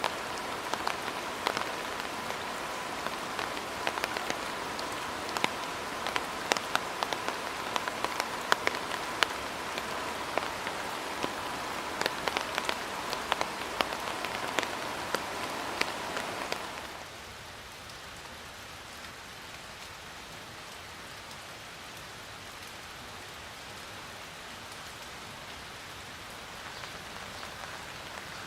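Steady rain falling, with many distinct drops striking a surface over an even hiss and a faint steady tone beneath. A little past halfway it cuts abruptly to a quieter, smoother rain hiss without the sharp drop hits.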